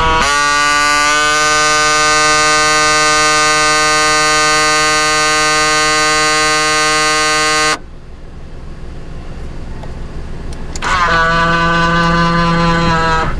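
Daihatsu Move Custom RS driver's power door mirror motor making a loud, steady buzzing whine as the mirror folds, an abnormal noise that marks a fault in the folding mechanism. It runs for about eight seconds, cuts off suddenly, and returns for about two seconds near the end.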